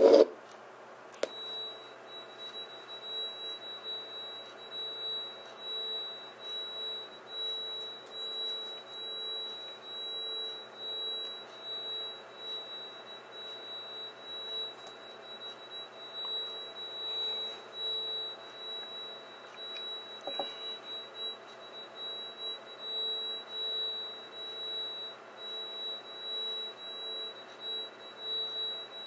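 Recording of a Boeing 777 jet engine played back slowed down: a steady high whine over a lower hum that wavers in regular pulses, starting with a click about a second in.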